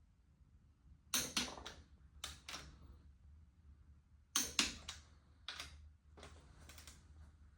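Sharp metallic clicks and knocks from hand tools working on engine parts, mostly in quick pairs, over a low steady hum.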